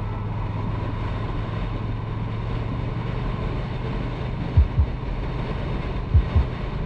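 Motorcycle riding at road speed: a steady low engine hum under wind noise on the microphone. Two pairs of short low thumps come past the middle and near the end.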